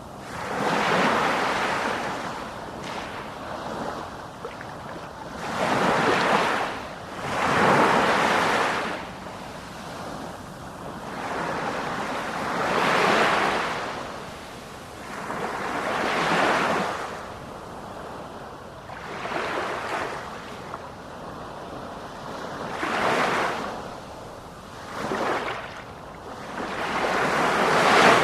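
Sea waves surging and breaking in repeated swells, each rising and falling over a second or two, with one every two to four seconds.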